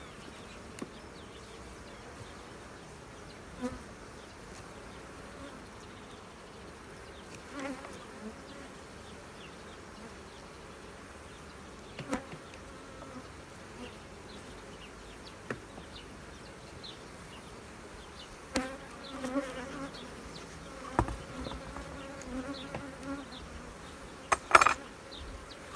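Honeybees buzzing steadily around an opened hive, from a colony the beekeeper calls somewhat aggressive. Sharp knocks come every few seconds, the loudest near the end.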